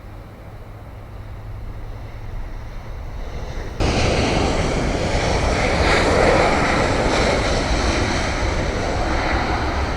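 Jet airliner's engine roar, a Southwest Boeing 737 landing, growing steadily louder and then, about four seconds in, suddenly becoming a loud, even rush.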